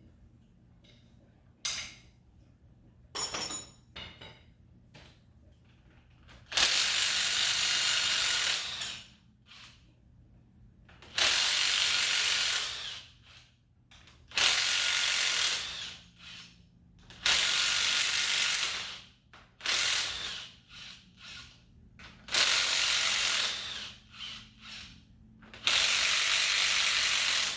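A power ratchet running fasteners off an engine in six bursts of about two seconds each, with clicks and small metal knocks in between as bolts are removed during a top-end teardown.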